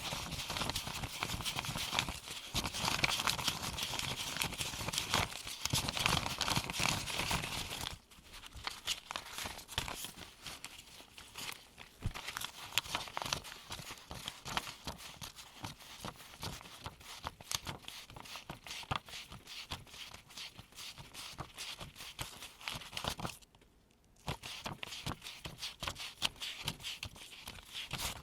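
US $1 paper bills handled by gloved fingers while being counted into a pile: about eight seconds of dense, louder rustling and crinkling, then a long run of quick, crisp paper snaps and flicks as single bills are laid down, with a short pause near the end.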